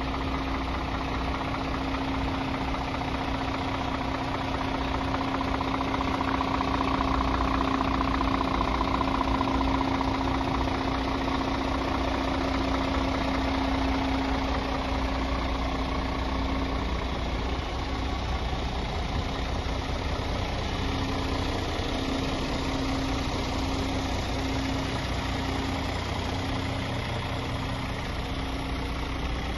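Scania R 450 truck's 13-litre straight-six diesel engine idling steadily. A humming tone over the engine breaks into an on-off pulse about once a second in the second half.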